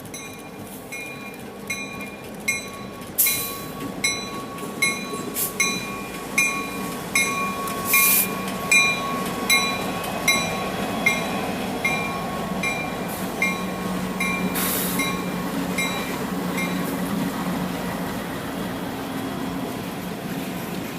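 A train passing a grade crossing. The crossing bell rings about twice a second and stops a few seconds before the end, over the train's rumble, with sharp clacks of wheels over rail joints in the first half.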